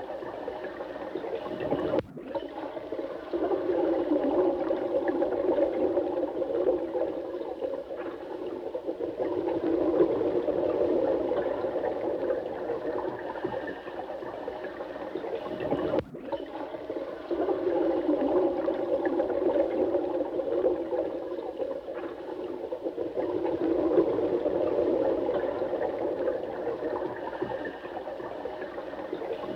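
Steady running water, a dense rushing concentrated in the low-middle range. It is broken by a brief dip about every 14 seconds, as the recording loops.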